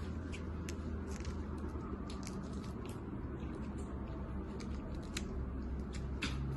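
Eating by hand from a seafood platter: irregular sharp clicks and crackles of shells being handled and food being chewed, over a low steady hum.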